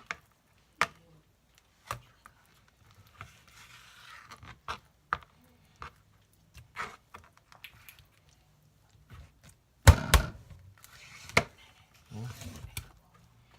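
A knife knocking on a cutting board as raw chicken is cut up and skinned: scattered sharp knocks, the loudest a close pair about ten seconds in, with softer scraping noises between.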